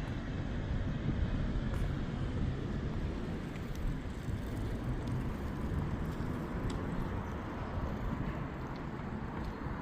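Steady low engine rumble of a vehicle, with outdoor ambience.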